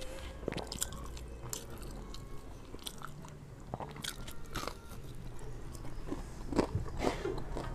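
Close-up chewing and crunchy biting of fried snacks (gorengan) eaten with rice. Louder crunches come a little over six seconds in.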